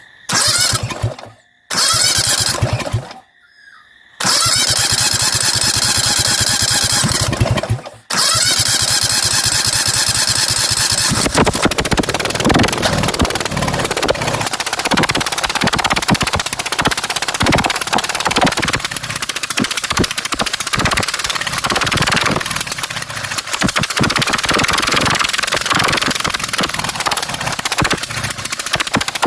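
Straight-piped V-twin racing lawn mower engine being started: it fires and runs loudly for a moment three times, cutting out after each try, then catches about eight seconds in and keeps running loud, with a fast, uneven pulsing exhaust note.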